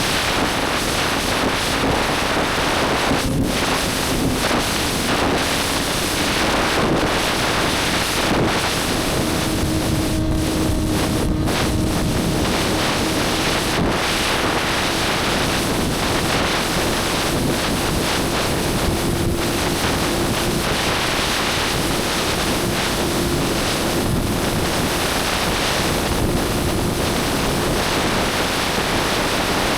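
Wind rushing over the microphone on a moving motorcycle, with the engine's steady note underneath that steps up in pitch about nine seconds in.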